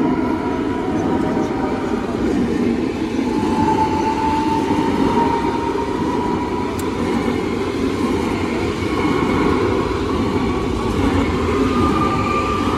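Rail vehicle running: a steady rumble with a thin whine above it that brightens and rises slightly a few seconds in.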